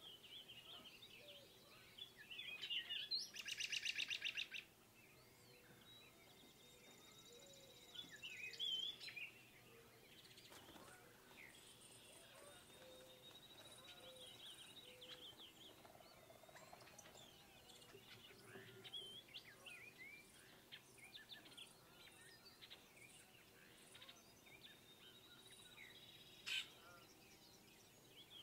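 Songbirds chirping and singing quietly, many short calls overlapping, with a louder rapid trill about three seconds in and a single sharp click near the end.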